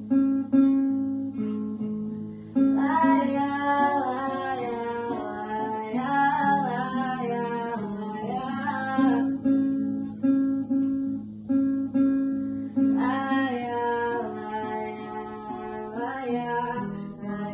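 Music: a strummed acoustic guitar with wordless singing over it for several seconds, then again shortly before the end.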